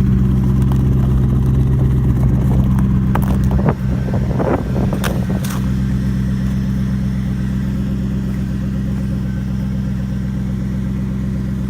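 Mercury Grand Marquis 4.6 V8 with a muffler delete idling after a cold start, a steady low exhaust note. A few short sharp sounds come in the first half, and the level eases slightly about four seconds in.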